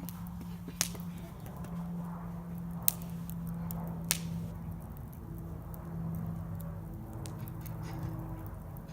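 Bonfire crackling, with scattered small snaps and three louder pops in the first half.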